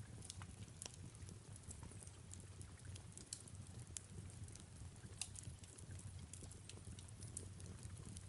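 Fireplace fire crackling softly, with irregular sharp pops and snaps, over a faint steady rain hiss and a low hum.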